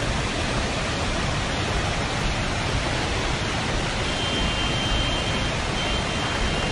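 Steady roar of rushing water, an even, unbroken wash of noise. A faint high steady tone comes in about four seconds in, breaking off and returning.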